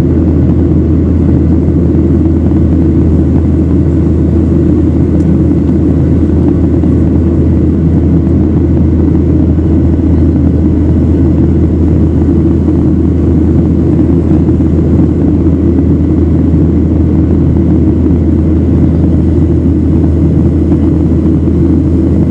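Steady jet airliner cabin noise in flight: an even, loud low rumble of engines and airflow that does not change.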